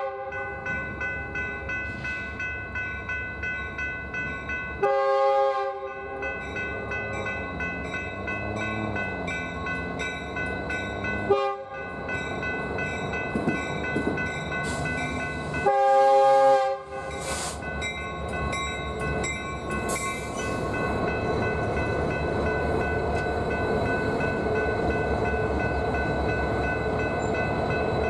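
BNSF freight locomotive's air horn sounding for a crossing: a long blast about five seconds in, a short one, then a final long one, over the rhythmic clack of wheels on the rails. After the last blast, the steady noise of the train rolling past builds and carries on.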